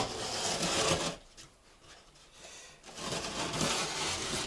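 Knife cutting gypsum board in two long scratchy strokes: one lasting about a second at the start, the other from about three seconds in to the end.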